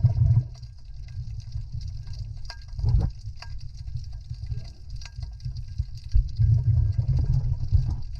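Water sloshing and rumbling close to the microphone in uneven low surges, loudest at the start, about three seconds in and again near the end, with scattered small clicks and a faint steady hiss.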